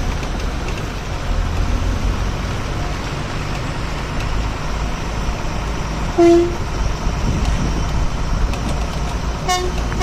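Truck driving with a steady low engine and road rumble. A vehicle horn toots briefly about six seconds in, and again, longer, near the end.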